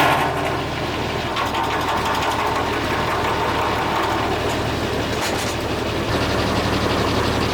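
Foley Belsaw M-14 circle sawmill and its power unit running steadily, the blade spinning free out of the cut. The louder cutting noise stops right at the start, and the running grows slightly louder about six seconds in.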